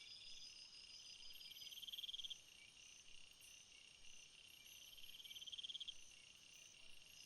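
Jungle insect chorus: several crickets trilling steadily at different high pitches, with a stronger pulsing trill that swells up twice, about two seconds in and again near six seconds.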